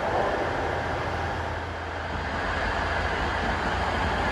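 Passenger train moving at a station platform: a steady rumble and rolling noise.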